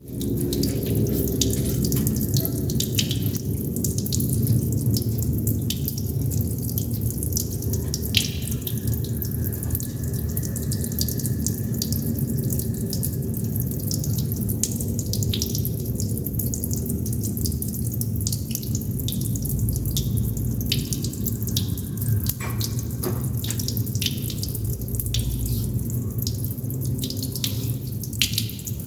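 Water droplets falling in an irregular patter of sharp drips over a steady low water noise.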